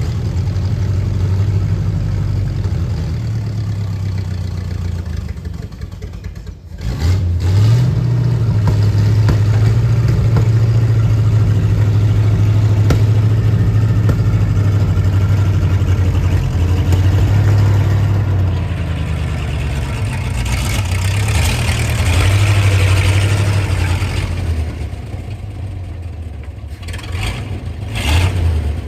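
A vehicle engine running under load. It drops briefly, then revs up about seven seconds in and holds steady, eases off, picks up again, and settles lower near the end.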